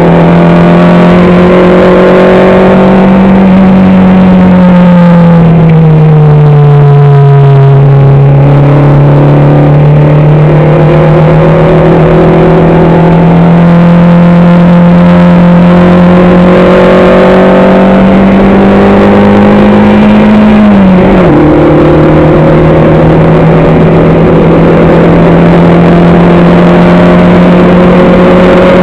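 Race car engine heard on board at high load, very loud throughout. Its pitch dips and recovers early on, climbs slowly, then falls sharply about 21 seconds in as the driver shifts up, and holds steady afterwards.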